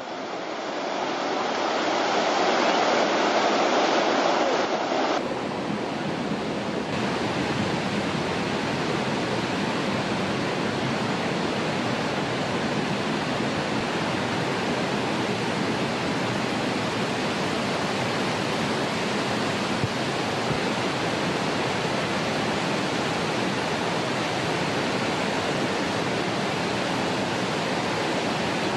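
Steady rushing of water, a continuous roar with no rhythm. About five seconds in it changes abruptly to a brighter, more even rush.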